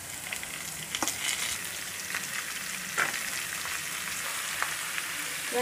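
Hot oil sizzling in a kadai as diced carrot and potato are tipped into the tempering of curry leaves, green chillies and spices and pushed off with a wooden spatula. A few sharp taps of the utensils against the pan come through the steady sizzle.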